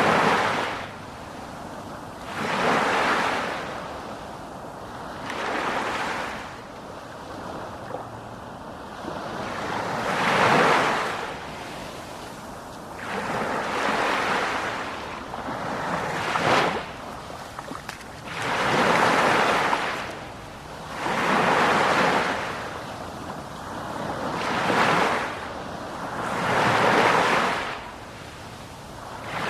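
Sea surf: waves wash in one after another, every two to three seconds, each a swell of rushing noise that rises and fades away.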